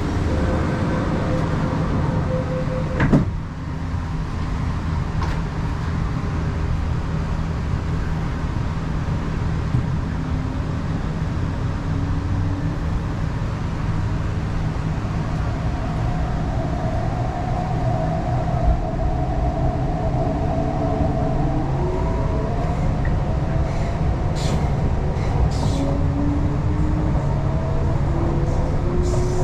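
MTR East Rail Line R-Train electric train running with a steady low rumble, with a single thud about three seconds in. In the second half its motor whine rises in pitch as the train gathers speed.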